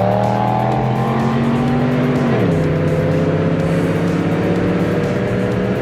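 Straight-piped Cadillac DTS V8 accelerating hard, its exhaust note rising in pitch. About two seconds in the pitch drops suddenly as the transmission upshifts, and the engine then pulls on at a steady, lower note.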